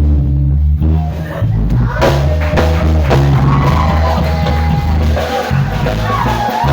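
Electric bass guitar playing low held notes; about two seconds in, a drum kit and the rest of the band come in, with a higher melodic line above.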